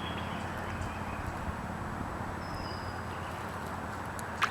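Steady outdoor background noise, with the breeze and a distant traffic rumble, and one faint, short, high whistle a little past halfway.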